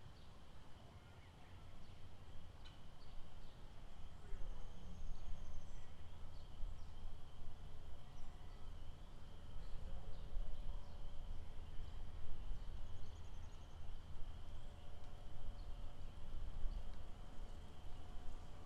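Outdoor lakeside ambience: a steady high-pitched animal chorus over a low rumble that swells after a couple of seconds, with scattered faint short calls and ticks.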